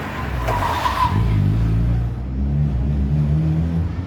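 Car engine revving, its pitch rising and falling, with a short harsh burst of noise about a second in.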